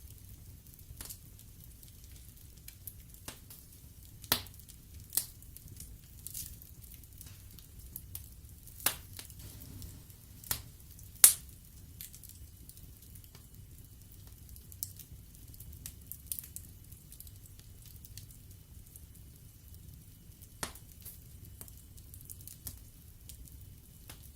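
Wood logs burning in a fireplace, crackling with scattered sharp pops over a low steady rumble of the flames. The loudest pop comes about eleven seconds in.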